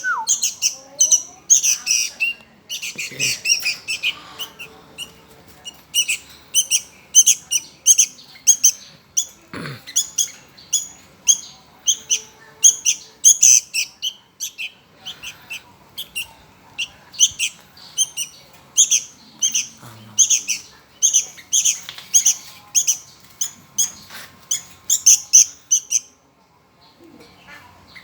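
Hungry young sooty-headed bulbul (kutilang) giving rapid, repeated high begging chirps, about two to three a second, stopping a couple of seconds before the end.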